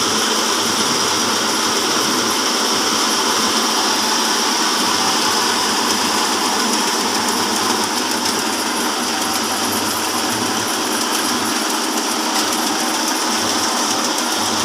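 Horizontal band sawmill, driven by a 5 HP electric motor, running steadily with its blade cutting through a log.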